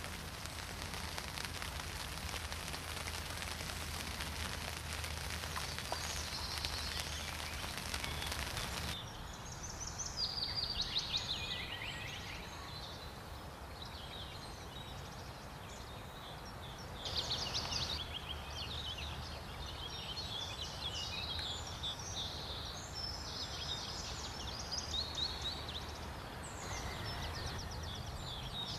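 Rain pattering steadily for about nine seconds. It then gives way abruptly to outdoor birdsong: a songbird singing short, quick, repeated phrases and trills in several bursts.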